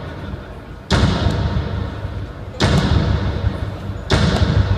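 Fireworks exploding in a series of loud booms, each with a rumbling tail: about a second in, then near the middle, then two in quick succession near the end.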